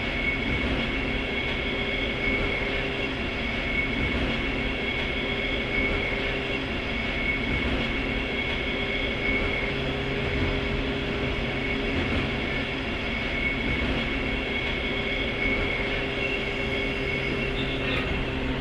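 Onboard running noise of a JR 103-series electric train's motor car (MoHa 102) at steady speed: the MT55 traction motors and gears give a steady whine over continuous wheel-on-rail noise, and a low hum comes in about halfway through.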